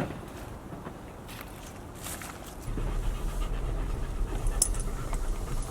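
A dog panting. A low steady rumble joins about three seconds in.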